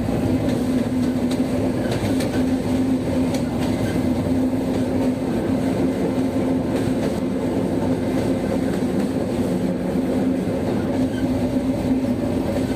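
Passenger train running, heard from inside a carriage: a steady loud hum with one strong low tone, and faint clicks now and then.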